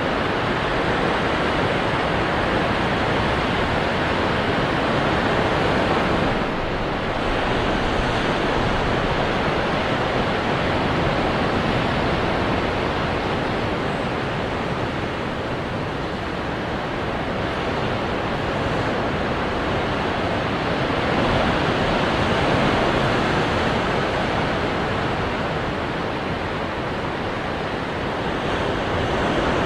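Ocean surf breaking on rocks: a continuous, dense wash of water noise that swells and eases gently every several seconds.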